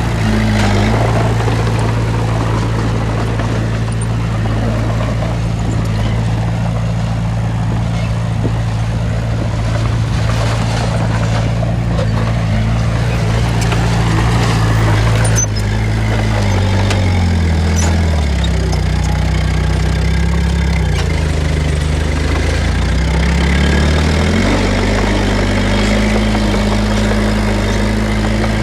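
Heavy diesel engine of an earthmoving machine running steadily. About halfway through its pitch drops and stays low for several seconds, then climbs back up near the end.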